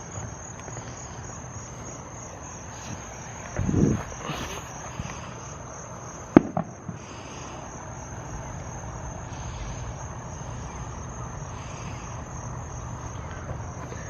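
Insects chirring, a steady high pulsing drone throughout. A low firework boom comes about four seconds in, and a sharp firecracker crack with a smaller one follows a couple of seconds later.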